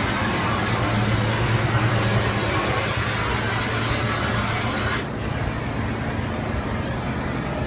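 Car-wash water jets spraying against the car, heard from inside the cabin as a loud, even hiss that cuts off suddenly about five seconds in, over a steady low hum of machinery.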